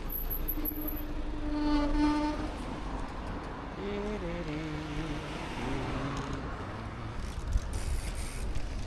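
Wind and rolling noise while riding, with a steady pitched tone like a vehicle horn held for about a second, about two seconds in, followed by wavering pitched tones.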